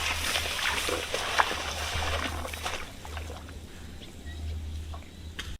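Shallow water in a flooded rice field splashing and sloshing, with scattered short splashes, louder for the first three seconds and quieter after.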